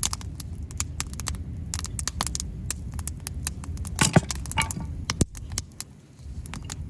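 Wood fire crackling and popping with irregular sharp snaps over a steady low rumble. A louder knock with a brief ring comes about four seconds in.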